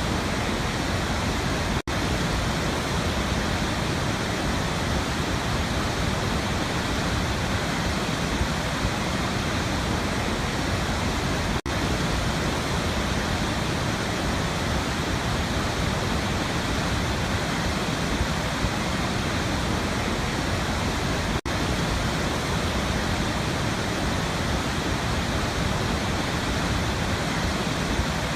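Waterfall rushing in a steady, even roar of water, broken three times by a split-second drop-out.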